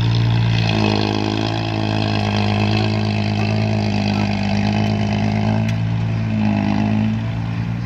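Heavy diesel engines of an excavator and dump truck running. A steady low engine note runs throughout. A second, higher engine note comes in about a second in, drops away just before six seconds, and returns briefly near the end.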